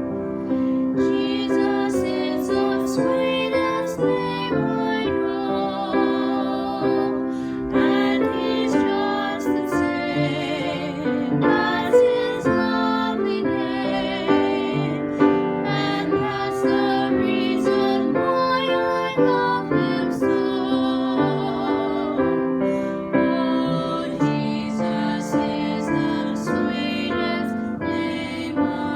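A slow, gentle piece of piano music, the notes struck one after another in a steady flow.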